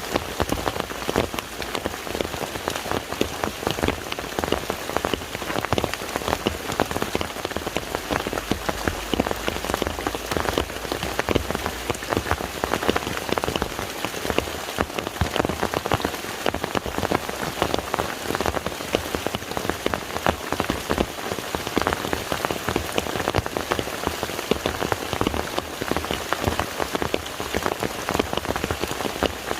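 Steady rain falling on the surface of a lake: a dense mass of individual drops heard as quick ticks over a constant hiss.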